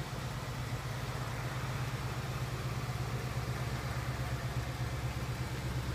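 Ford Mustang GT's 5.0-litre Coyote V8 idling steadily.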